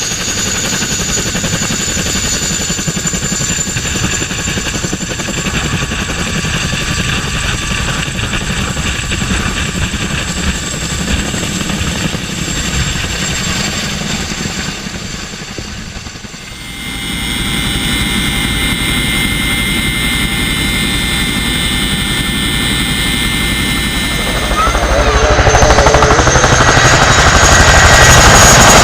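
Boeing CH-47 Chinook tandem-rotor helicopter running, a steady rotor noise with a high turbine whine over it. The sound changes abruptly about sixteen seconds in and grows louder about twenty-five seconds in.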